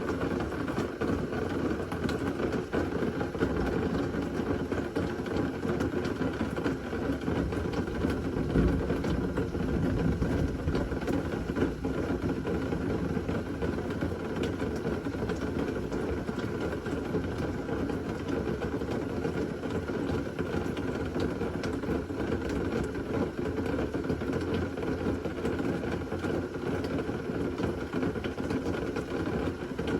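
Steady rain of a severe thunderstorm, an even dense hiss and rumble, with one brief louder low swell about eight and a half seconds in.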